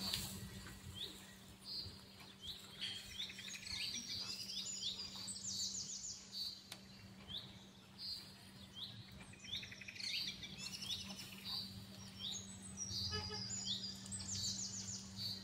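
Small birds chirping repeatedly in quick short calls, faint, over a steady low hum.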